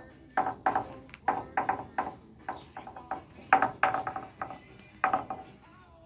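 A run of sharp metal-on-metal strikes, irregular at about two to three a second, each ringing briefly with a clear pitch. The loudest blows come around the middle.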